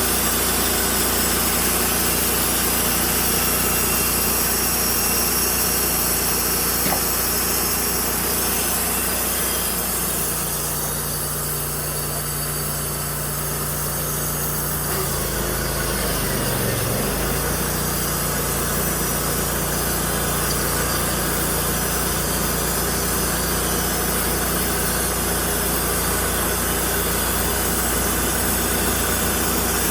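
Sawmill engine running steadily, its pitch dipping briefly about halfway through before settling again.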